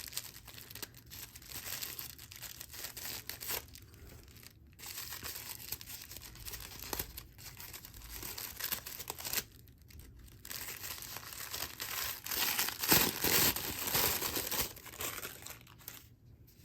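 Packaging crinkling and tearing as a bagged yarn skein is unwrapped by hand, in irregular bouts with a few short pauses, loudest a little past the middle.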